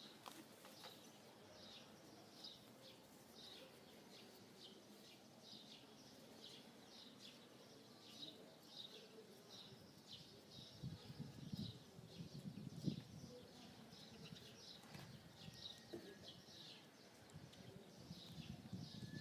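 A bird chirping faintly and repeatedly, one or two short chirps a second, over near silence, with a few low muffled knocks a little past the middle.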